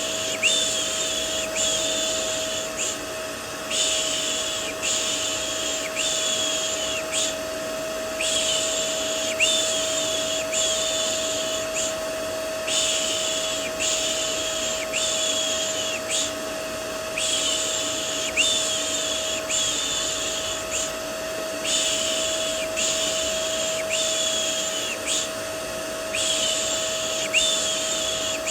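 Vacuum cleaner white noise runs steadily with a constant motor hum. Over it comes a rhythmic 'shh' shushing for soothing a baby, about one shush a second in runs of about four with short pauses between runs.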